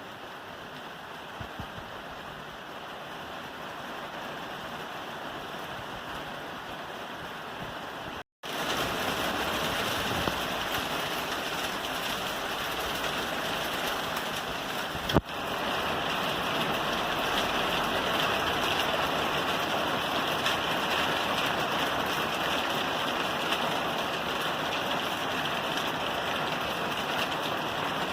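Rain falling on a roof, a steady even hiss of drops. It cuts out for an instant about eight seconds in and comes back louder, and a single sharp tap sounds about halfway through.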